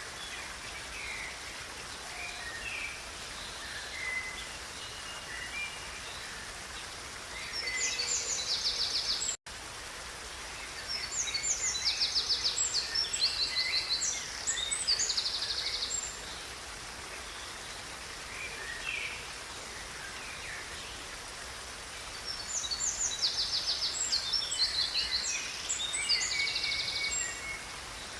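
Songbirds singing over the steady rush of a river: three spells of loud, rapid high trills, with softer scattered chirps between them. The sound cuts out for an instant about nine seconds in.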